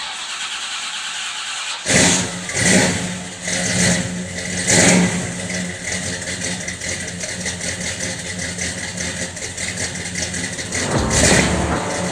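A car engine starting about two seconds in, then running with a steady hum and a few brief surges in level.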